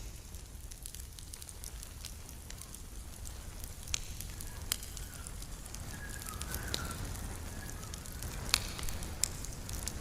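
Campfire crackling, with irregular sharp pops from the burning wood over a steady low rush of the flames.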